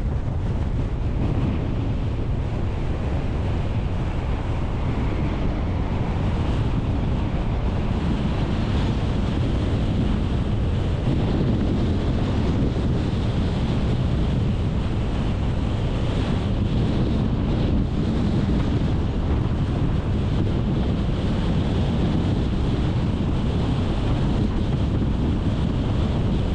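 Steady wind and road noise from a car driving along, a constant low rumble with hiss above it, and wind buffeting the microphone.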